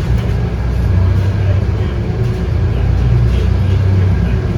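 Scania K230UB bus's 8.9-litre five-cylinder diesel engine running with a steady low drone, heard from inside the bus, a little louder from about a second in.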